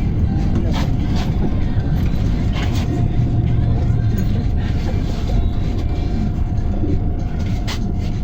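PAZ-320405-04 city bus driving, heard from inside the cabin: a steady low engine and road rumble with a faint steady whine, and short body rattles a few times.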